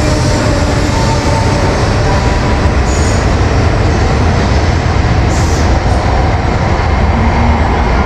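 Shinkansen bullet train running on its tracks: a loud, steady rumble and rush.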